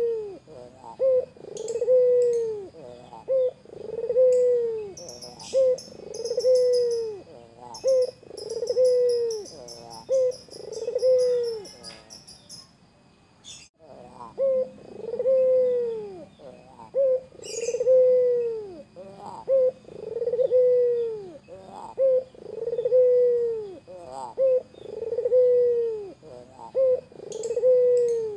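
White ringneck dove (burung puter) cooing over and over: a short note, then a long arching coo, repeated about every second and a bit, with a brief break about halfway through. Small birds chirp faintly and high in the background during the first half.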